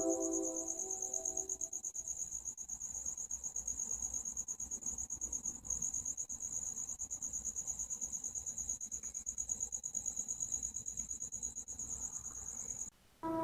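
Crickets chirping in a fast, steady pulse. A droning hum of several steady tones fades out in the first second or so. The audio drops out briefly near the end.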